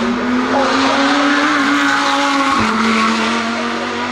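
Racing car engine running hard at high revs, its pitch slowly rising, with one upshift about two and a half seconds in before it climbs again.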